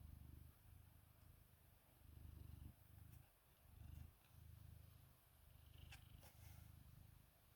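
A cat purring, a low rumble that swells and eases in a steady rhythm of about one pulse a second with each breath.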